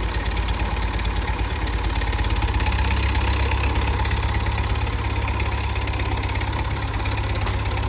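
Massey Ferguson 165 tractor engine running steadily at a low idle-like speed, swelling slightly around the middle.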